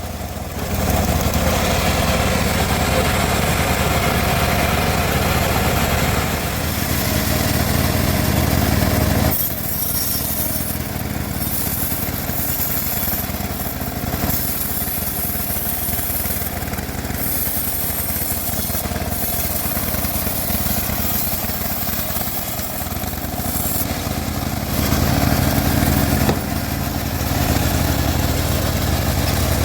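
Home-built bandsaw sawmill running as its blade saws a teak log, with a steady machine drone under the cut. The sound is heavier for the first nine seconds or so, lighter after that, and heavier again near the end.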